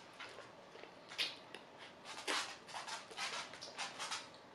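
Close-up wet chewing and lip-smacking of a man with no teeth gumming a mouthful of sushi bowl, a quick run of short smacks with two louder ones about a second in and just past two seconds.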